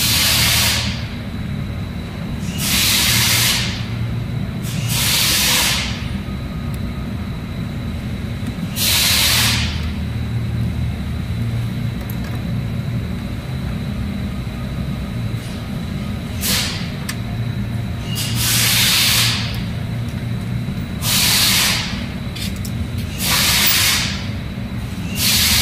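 Car engine running steadily, with about eight short bursts of loud hissing spread through it.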